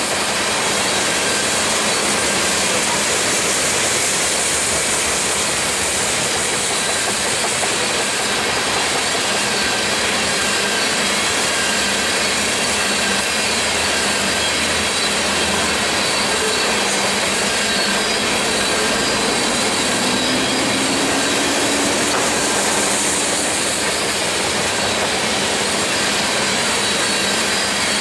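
Freight train tank cars rolling past, a steady, unbroken roar of steel wheels on the rails.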